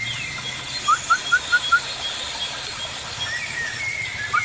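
Birds calling: a quick run of five short rising chirps about a second in, repeated near the end, over thinner high whistled notes.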